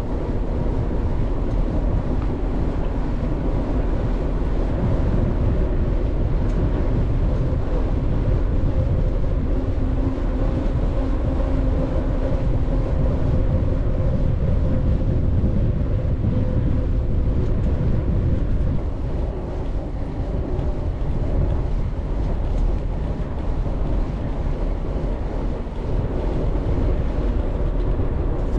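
Steady wind rush and road rumble on the microphone while riding a bicycle, with a faint steady hum, easing slightly about two-thirds of the way through.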